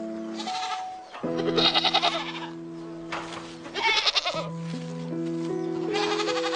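An animal bleating: three long, wavering calls, with a fainter one near the start, over background music of simple held notes.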